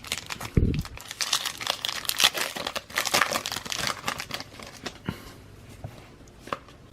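Trading card pack wrapper being torn open and crinkled, a dense crackling for the first few seconds, with a low thump near the start. It thins out to a few scattered clicks of cards being handled.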